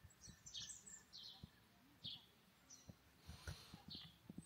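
Faint bird chirping: short high calls repeated roughly once a second, with a few soft low bumps underneath.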